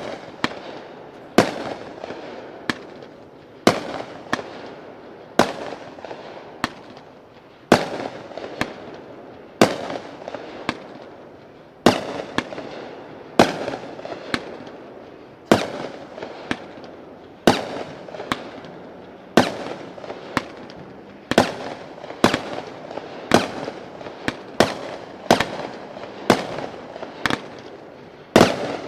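Wakin-N-Bacon 41-shot consumer fireworks cake firing its shots: a steady string of sharp bangs, about one every one to two seconds, with fainter pops between them.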